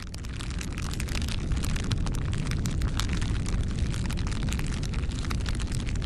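Campfire crackling: a dense stream of sharp pops and snaps over a steady low rumble of burning wood, swelling up over the first second.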